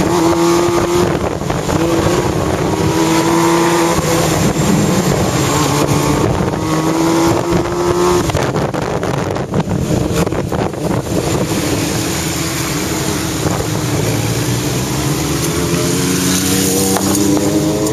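Motorcycle engine heard from on board, its pitch climbing and dropping back several times as it accelerates and shifts up through the gears, with wind noise on the microphone, heaviest mid-way.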